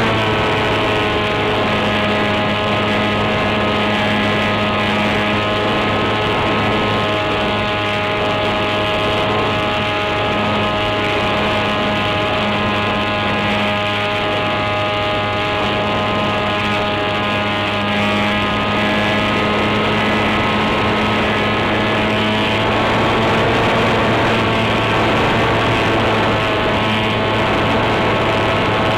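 An RC plane's brushless electric motor (NTM Prop Drive 28-26, 1200kv) turning an 8x6 propeller at flying power: a steady whine with many overtones over a rush of air noise, shifting a little in pitch twice as the throttle changes.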